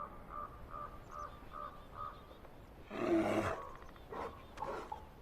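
Wild animal calls: a run of short repeated calls, about three a second, then a louder rough burst, like a roar or growl, about three seconds in.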